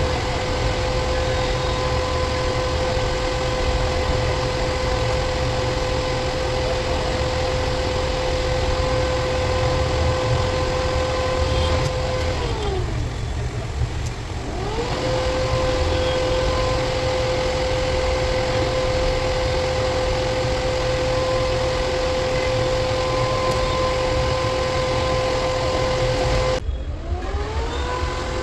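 A motor-driven machine running with a steady whine over a heavy low rumble. Twice its pitch sinks away and then climbs back up, as it is stopped and restarted.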